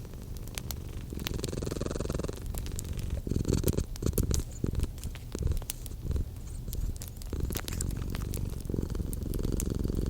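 Domestic cat purring, a low rumble that swells and fades with each breath, under the sharp irregular crackles of a wood fire; a run of louder pops from the fire comes about three to five seconds in.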